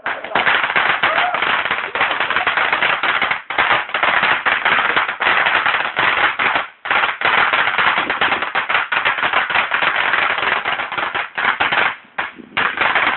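Fireworks crackling: a dense, rapid run of small bangs, with short breaks about three and a half, seven and twelve seconds in.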